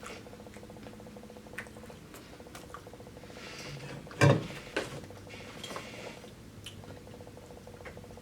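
A person eating fried chicken in front of the microphone: soft chewing with small wet mouth clicks, and a short louder sound about four seconds in.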